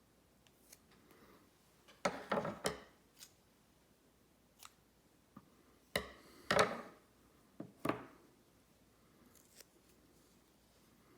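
Steel straight razor blade scraping across a wet whetstone in a few short strokes, in two bunches about four seconds apart, with faint handling clicks between.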